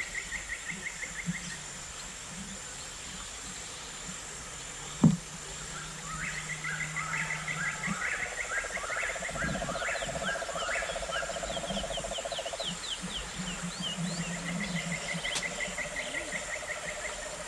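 Riverside chorus of frogs and insects calling: fast rattling trills repeating over and over, a lower pulsing trill through the second half, and a steady high insect hiss. One sharp knock sounds about five seconds in.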